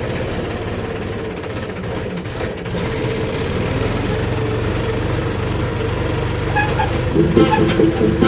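Heavy diesel engine running with a fast, rough pulsing. It gets louder about three seconds in and again near the end.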